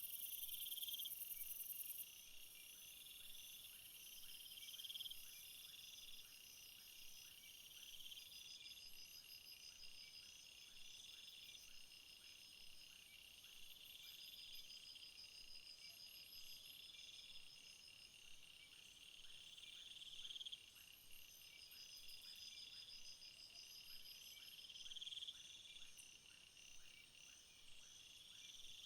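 Crickets and other field insects chirping in several overlapping high-pitched songs, one swelling into a phrase about every three seconds over steady pulsed trills; a very high buzz drops away about two seconds in.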